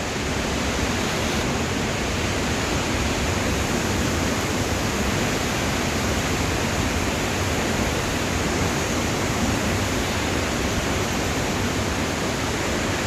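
Waterfall rushing with a steady, unbroken noise of falling water.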